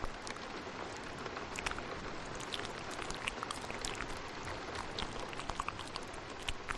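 Steady rain hiss with layered ASMR mouth sounds: short wet clicks and smacks scattered irregularly over it.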